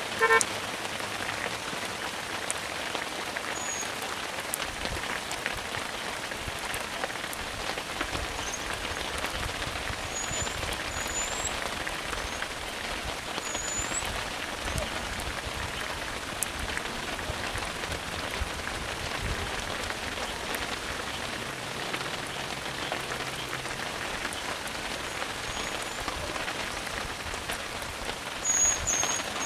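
Steady rain falling, an even hiss full of fine patter. A short, loud pitched call sounds right at the start, and faint high chirps come and go.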